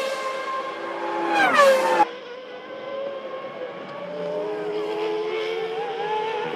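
1998 Formula One V10 engines at high revs. Two cars pass with their engine note falling in pitch as they go by, one right at the start and one about a second and a half in. After a sudden cut about two seconds in, a steadier, slightly wavering engine note carries on to the end.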